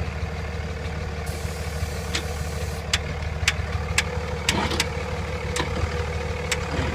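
A diesel engine idling steadily. About a second in, a short spray of starting fluid hisses for about a second and a half, and a string of sharp clicks follows.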